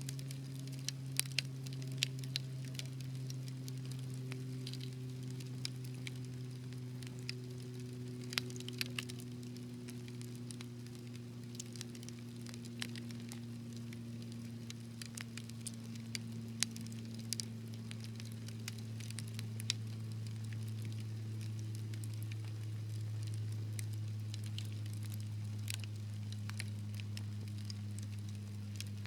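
Wood fire crackling, with scattered sharp pops and snaps, a small cluster of them about a second in and again around eight to nine seconds, over a steady low hum with faint tones that slowly sink in pitch.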